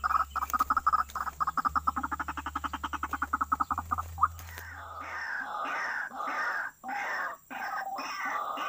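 Rapid croaking animal calls, about ten pulses a second over a low steady hum, ending after about four seconds with a click. An irregular, different sound with short breaks follows.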